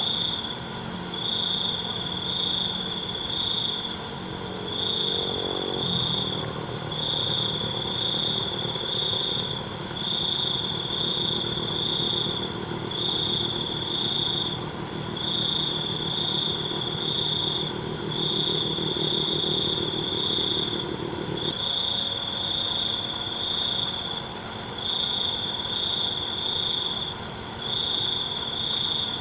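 Night crickets chirping: a loud high-pitched trill comes in bursts about a second long with short pauses, over a steady chorus of other insects. A faint low hum underneath stops suddenly about three-quarters of the way through.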